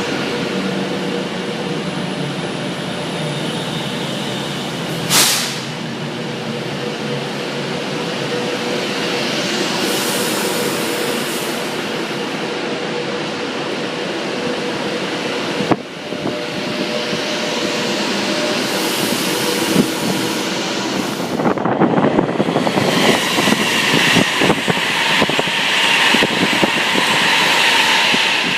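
Train running through a station: a steady rail rumble, with wheels clattering more densely over the last few seconds.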